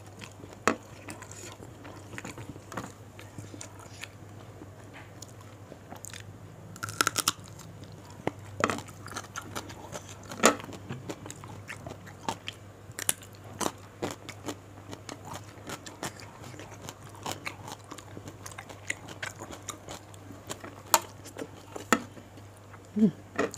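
Close-mic chewing of raw leafy vegetables dipped in sambal: irregular crunches and sharp wet clicks of biting and chewing, over a faint steady low hum.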